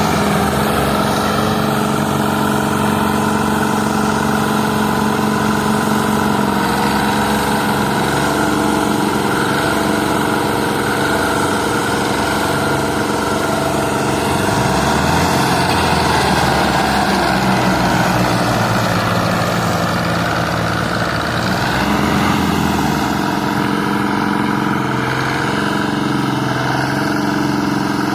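A tractor's diesel engine runs loud and continuous, with its pitch wavering midway. This is consistent with it straining to pull a stuck trailer loaded with potatoes.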